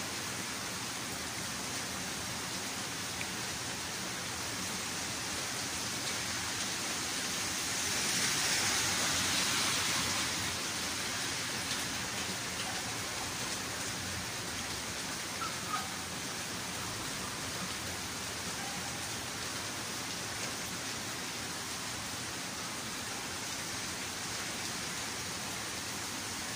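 Steady rain falling on garden plants and wet tiled paving, swelling briefly heavier about eight seconds in, with a couple of faint ticks about halfway through.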